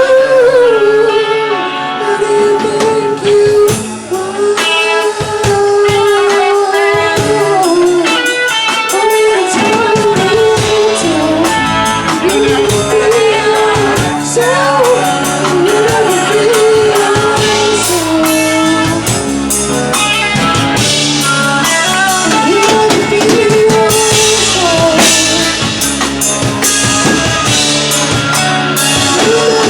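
Live band playing, with guitar and drum kit under a wavering melody line.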